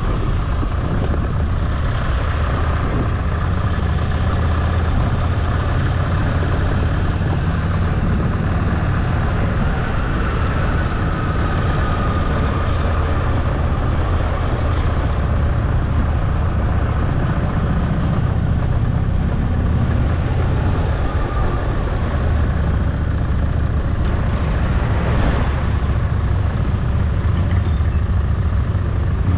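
Motorcycle engine running steadily while riding, under an even rush of wind and road noise.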